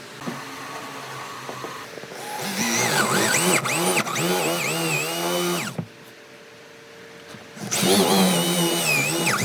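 Electric power tool working wood in two runs, its motor pitch repeatedly dropping and recovering as it bites into the work. A quieter steady hum fills the pause between the runs.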